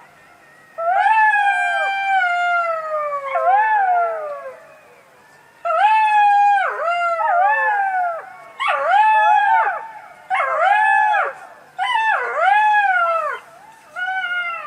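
A fox calling: a long, falling, howl-like cry, then a run of shorter cries, each rising and falling in pitch, repeated with brief gaps.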